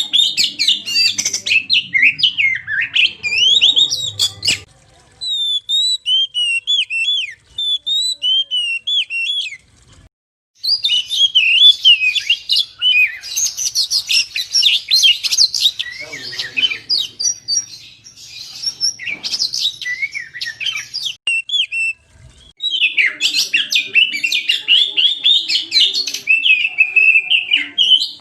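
Oriental magpie-robin (kacer) singing a fast, varied whistled song, with a sparser stretch of notes between about five and ten seconds in and brief pauses near ten and twenty-two seconds.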